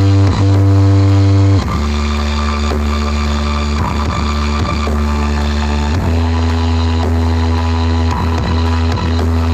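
Music played at high volume through a large sound system, with long, very strong bass notes that change pitch a few times and slide between notes.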